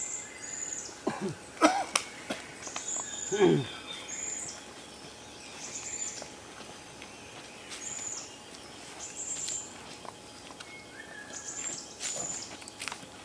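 Forest birds calling: a thin, high call repeated about every second, over a light outdoor background. A few sharp knocks and a short falling call come between one and four seconds in.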